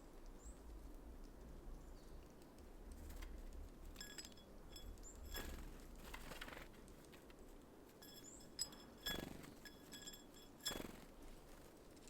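Faint sounds of small birds at a seed feeder: scattered light taps and clicks, short flurries of wing flutter in the middle and twice near the end, and a few brief high chirps.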